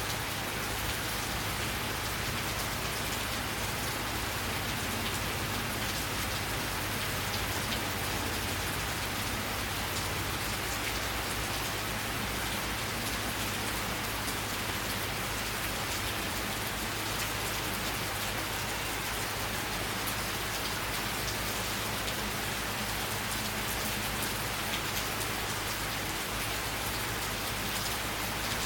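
Steady summer rain falling, a constant hiss with many individual drops ticking on surfaces.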